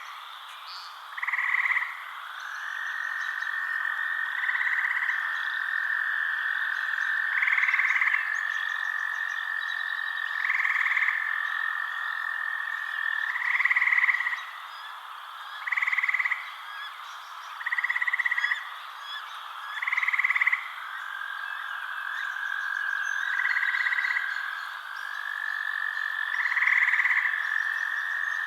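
Frogs calling at night: a steady trilling chorus, with a louder call coming in about every two to three seconds, about ten in all.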